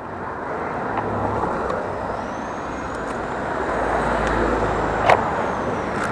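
Road traffic noise of passing vehicles, building slowly with a low rumble swelling near the middle, and one sharp click about five seconds in.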